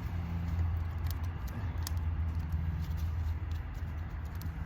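Steady low hum, with a few faint light clicks from the parts of a dismantled car starter motor being handled.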